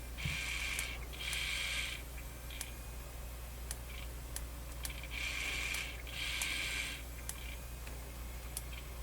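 Sony MZ-NH700 Hi-MD portable MiniDisc recorder's drive mechanism whirring in two pairs of short bursts, with small clicks in between, as it writes to the disc after a track erase.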